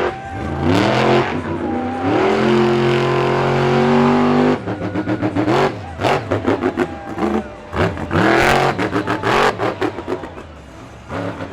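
Monster truck engine revving hard. Its pitch climbs and holds high, then cuts off abruptly about four and a half seconds in. Rapid choppy bursts of throttle follow, then another rev-up a few seconds later.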